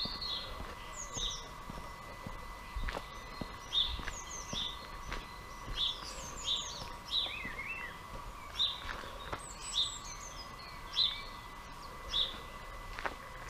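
Small birds calling: one gives a short chirp over and over, about once a second, while others add higher, falling twitters.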